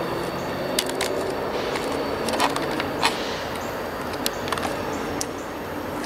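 A distant train drawing nearer: a steady low rumble with a hum, broken by scattered sharp clicks.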